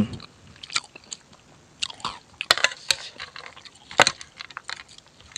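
Close-miked chewing and biting of food: irregular wet mouth clicks and smacks, the loudest about four seconds in.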